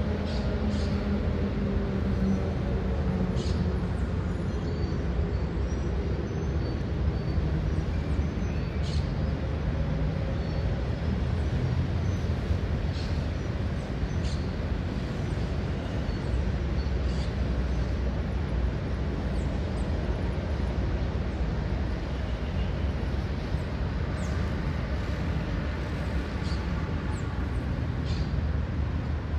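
Steady low rumble of city traffic, with a passing vehicle's engine heard in the first few seconds. Short, high bird chirps come and go throughout.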